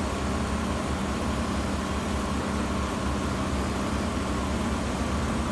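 2004 Hyundai Santa Fe's 3.5-litre V6 engine idling steadily, a 198,000-mile engine that runs smoothly.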